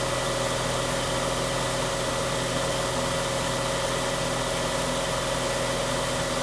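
Light aerobatic airplane's piston engine running steadily, heard from inside the cockpit as an even drone with a fixed hum.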